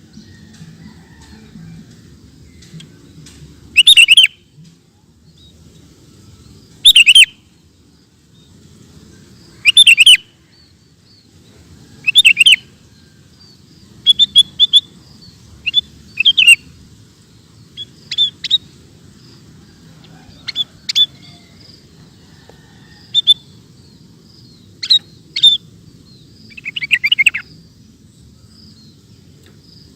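Sooty-headed bulbul (kutilang) singing in loud, short phrases about every three seconds, then a quicker run of shorter notes in the second half.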